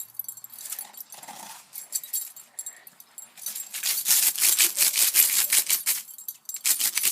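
A dog's claws scraping rapidly at ice, with a few scattered scrapes at first, then fast continuous scratching from about four seconds in, broken briefly near the end.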